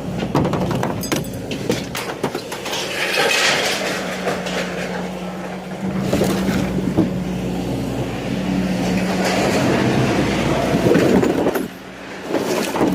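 An engine running steadily under loud, irregular clattering and banging of scrap metal being moved.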